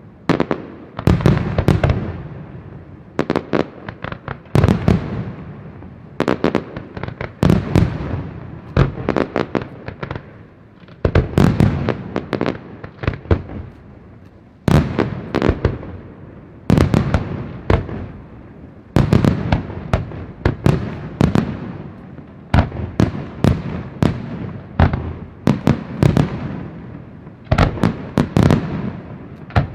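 Aerial fireworks display: shells bursting in quick clusters of bangs every second or two, each cluster fading out in an echoing tail.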